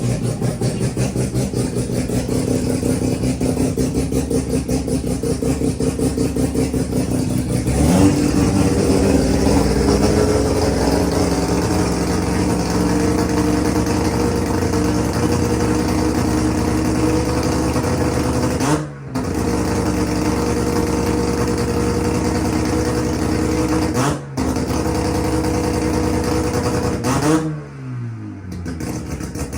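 Streetported 13B rotary engine running with a choppy, pulsing idle. About eight seconds in it is brought up to a steady higher speed, dips briefly twice, then falls back toward idle near the end.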